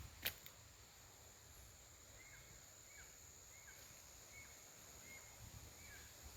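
Faint outdoor wildlife ambience: a small animal's short call repeating about once every 0.7 s from about two seconds in, over a steady high insect-like whine. A single sharp click comes just after the start.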